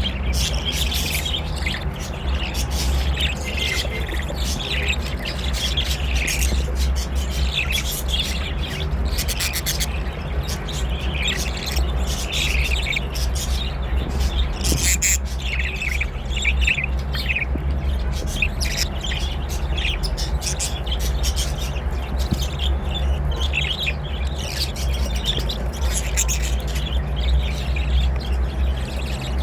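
Budgerigars chattering and squawking, a dense run of short, sharp calls without pause, over a steady low hum.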